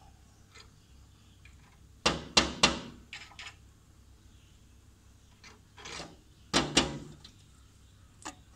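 A woodpecker pecking at a mirror's glass: sharp taps in quick bursts, three hard strikes together about two seconds in, a couple more soon after, and another hard pair about six and a half seconds in.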